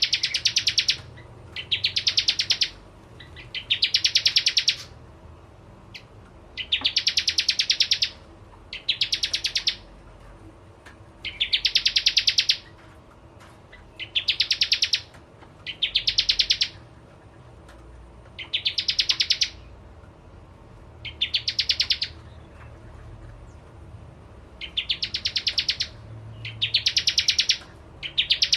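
Bar-winged prinia (prenjak jawa) singing: phrases of rapid, evenly repeated high notes, each about a second long, repeated every two seconds or so.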